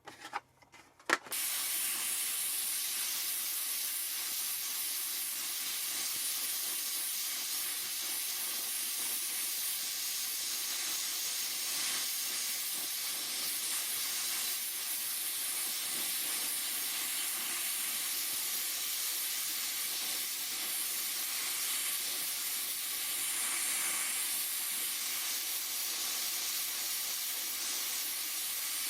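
Gas welding torch flame hissing steadily, after a few clicks and a sharp pop about a second in.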